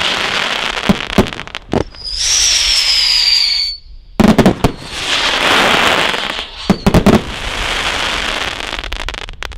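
Thunderous Finale multi-shot firework barrage cake firing: dense crackling broken by clusters of sharp loud reports. About two seconds in, a high whistle sounds for nearly two seconds, sliding slightly down, before the bangs and crackle resume.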